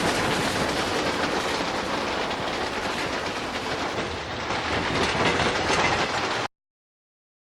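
Santa Fe steam passenger train running on the rails, a steady rolling rumble that cuts off abruptly near the end.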